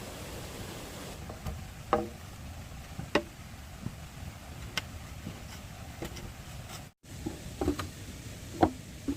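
Bamboo being struck in irregular sharp knocks, a few seconds apart, some with a short ringing tone, over a steady low background noise.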